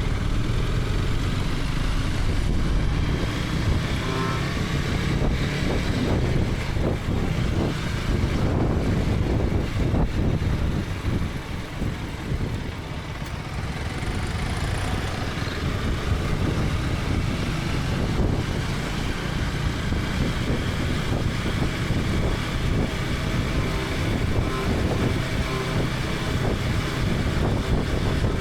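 KTM 250 Adventure's single-cylinder engine running under way, with wind and road noise on a helmet-mounted camera. The sound drops briefly a little before halfway, then picks up again.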